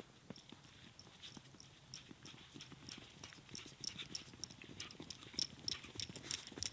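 Footsteps on snow in a steady walking rhythm, growing louder as they come closer.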